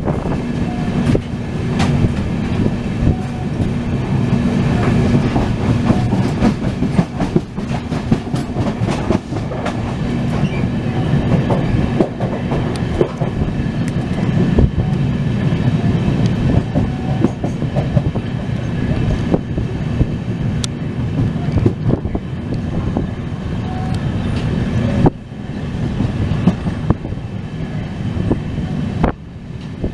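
Passenger express train running along the line, heard from aboard: a steady rumble with wheels clicking over the rail joints. A steady hum sits under it for the first few seconds, and the sound drops abruptly about 25 seconds in.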